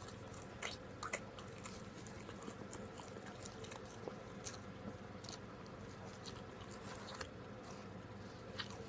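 Close-miked chewing of pepperoni pizza: irregular soft mouth clicks and small crunches, a few louder ones about a second in, over a steady low hum.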